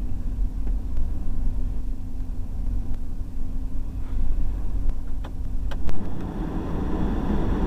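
Low, steady engine rumble with two sharp clicks about two-thirds of the way through, followed by a louder rushing noise near the end.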